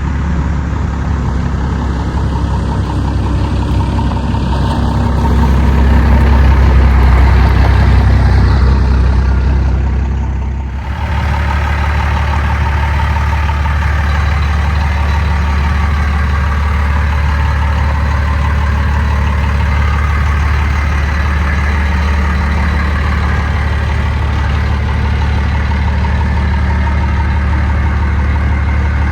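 1992 Dodge Ram D250's 12-valve Cummins inline-six turbo diesel idling steadily. It swells louder for a few seconds about five seconds in, drops briefly near eleven seconds, then settles back to an even idle.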